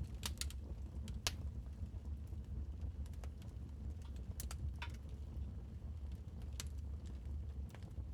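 Wood fire crackling in a fireplace: irregular sharp pops and snaps over a steady low rumble of the flames, the snaps thickest in the first second or so and sparser after.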